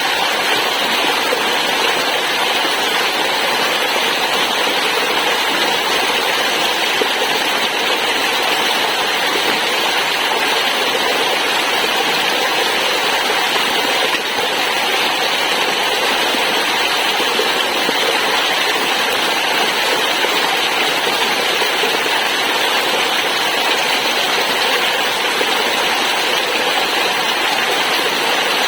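Waterfall: water rushing steadily, an even hiss-like roar without a break.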